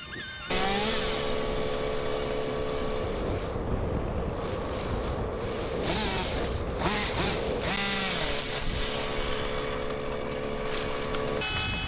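An engine on tree-work machinery running steadily, with a few rising and falling revs about midway.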